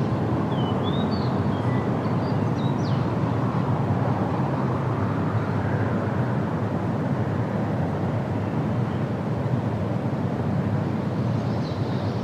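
Steady low wind noise, like a breeze rumbling through a forest, with a few faint bird chirps in the first few seconds and again near the end.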